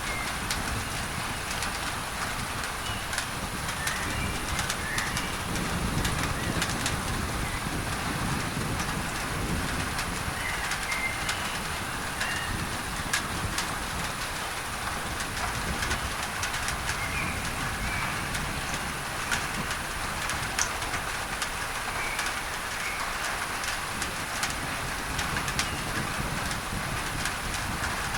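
Rain on a tin roof, many sharp drop ticks over a steady masking noise hiss, with birds chirping now and then and a low rumble underneath.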